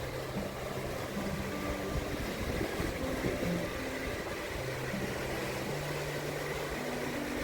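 Steady wash of surf and wind on the microphone, with soft background music of slow, held low notes.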